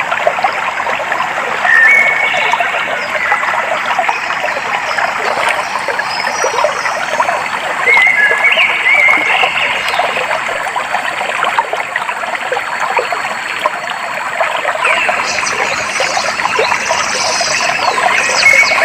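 Clear flowing stream water trickling and splashing steadily, with a few short bird whistles about two seconds and eight seconds in, and higher chirps near the end.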